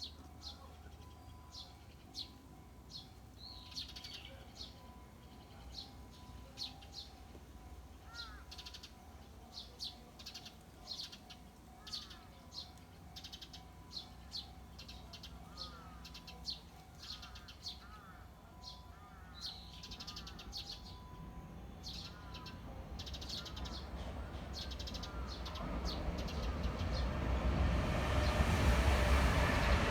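Small birds chirping over and over, short high notes with some rising calls among them. About two-thirds of the way in, the rumble of an approaching train starts to build, and by the end it is loud enough to drown out the birds.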